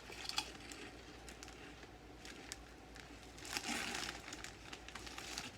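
Lay's potato chips crunching as they are bitten and chewed: scattered sharp crackles, with a longer, denser burst of crunching a little past halfway.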